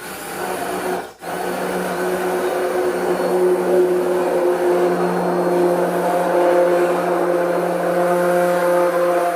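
Stick blender running steadily in a pot of oils and lye solution, mixing cold-process soap batter toward trace. It stops for a moment about a second in, then runs on with a steady motor hum.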